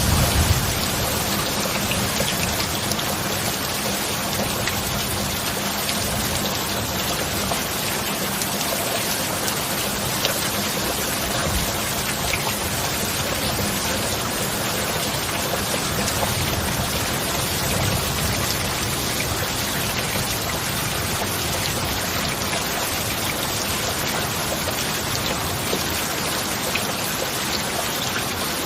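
Steady heavy rain: a dense, even hiss with scattered drop ticks, and a low rumble at the very start.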